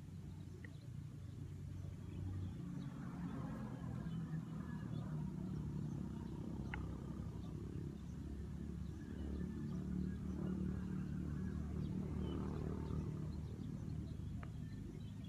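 Tractor engine running steadily with a low rumble, growing louder over the first few seconds. A few bird chirps sound over it.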